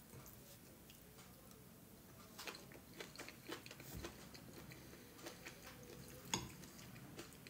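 Faint chewing of soft food, with a few light clicks of a fork against the bowl, the sharpest about six seconds in.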